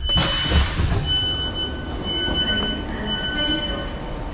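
Class 465 Networker electric train's wheels squealing, a steady high-pitched tone that breaks off and comes back several times over the low rumble of the train. A rush of hissing noise comes in the first second.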